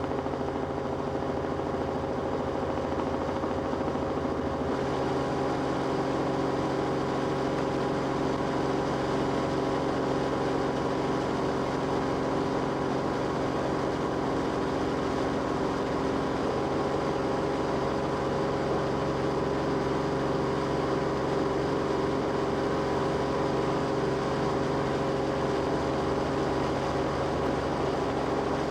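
Steady engine drone of the aircraft carrying the camera, heard on board: several held tones at an even level, shifting slightly about five seconds in.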